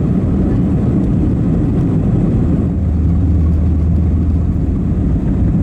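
Cabin noise inside an Airbus A321-231, heard from a window seat: a steady low rumble of its IAE V2500 engines and the airflow. A low drone swells in about halfway and fades near the end.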